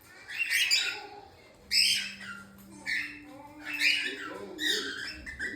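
Birds squawking: a run of short, harsh calls, about one a second.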